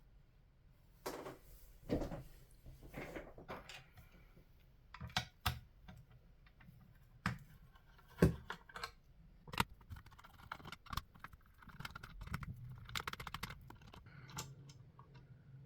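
Hands disassembling a Xiegu X6200 radio transceiver: irregular clicks, taps and short scrapes of small parts and tools, the loudest a sharp knock about eight seconds in.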